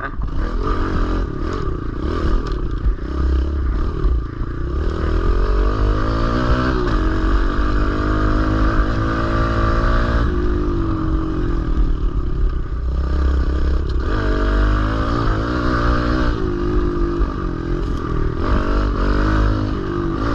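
Kawasaki KLX110L pit bike's small single-cylinder four-stroke engine being ridden hard, its pitch rising and falling again and again as it revs up and drops through the gears, with wind rumble on the microphone.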